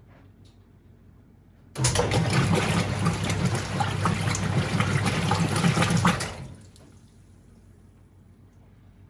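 Water rushing into the tub of a Whirlpool 3RLSQ8033SWD top-loading washing machine for about four and a half seconds. It starts suddenly and dies away as the water valve shuts.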